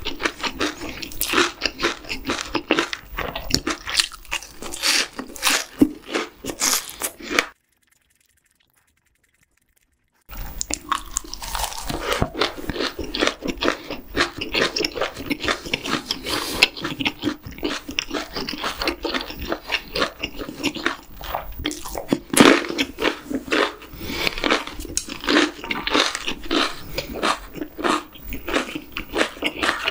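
Close-miked crunching and chewing of battered, deep-fried shrimp, a dense run of crisp bites and chews. It breaks off into about three seconds of dead silence a quarter of the way in, then the crunching resumes.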